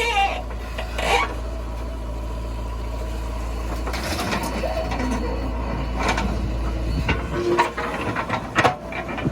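Heavy diesel engine running steadily, with several sharp metallic knocks and clanks in the second half.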